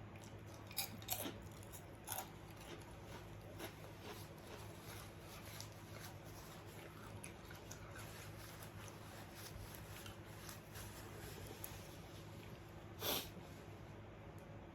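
Quiet eating sounds: a few faint mouth clicks in the first couple of seconds and one louder short smack or crunch near the end, over a steady low electrical hum.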